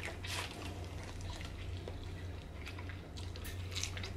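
Close-miked eating sounds: biting and chewing corn on the cob, with a few short wet mouth clicks and smacks over a steady low hum.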